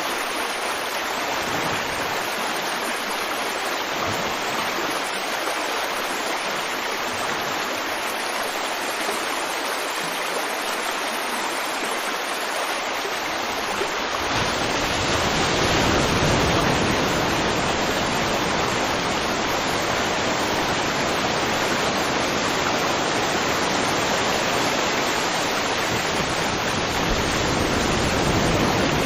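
River water flowing in a steady rush. About halfway through the sound becomes fuller and deeper and a little louder.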